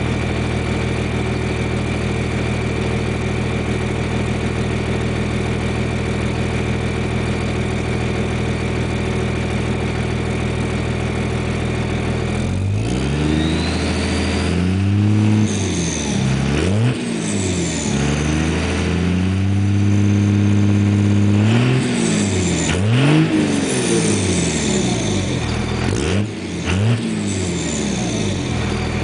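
2001 Dodge Cummins 5.9-litre inline-six turbo-diesel running through a 4-inch Diamond Eye exhaust with muffler and stainless tip, idling steadily for about the first twelve seconds. It is then revved in a series of quick blips, held at higher revs for about three seconds, then blipped several more times, with a high turbo whistle that falls away after the revs.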